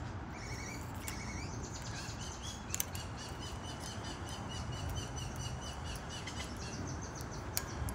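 Small birds chirping repeatedly, in a quick run of chirps through the middle, over a steady low outdoor rumble. Two light clicks about three seconds in and near the end.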